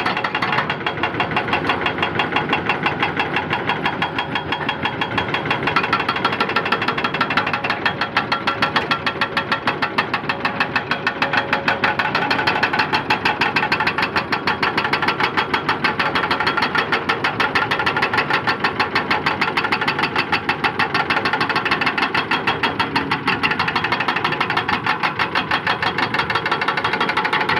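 Excavator's diesel engine running steadily, with a rapid, even pulsing throughout.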